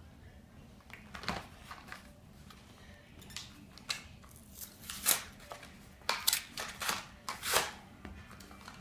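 Matchbox toy-car blister packs being handled, a series of short crinkling and scraping rustles of card and plastic, thicker in the second half.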